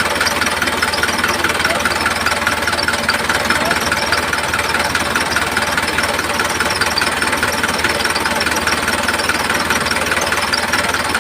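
Small electric motor of a homemade model tractor running steadily at constant speed, with a fast, even buzzing whir.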